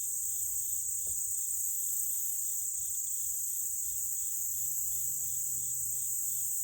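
A steady, high-pitched chorus of insects, with a second, lower insect call pulsing about three times a second beneath it.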